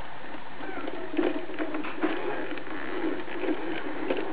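The plastic gears and loader mechanism of a toy rear-loader garbage truck clicking and rattling in uneven short runs as it is worked, starting about a second in.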